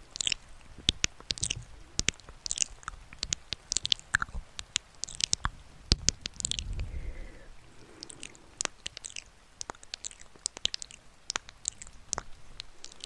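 Close-miked ASMR mouth sounds: irregular wet clicks and smacks, several a second, with a short low rumble about halfway through.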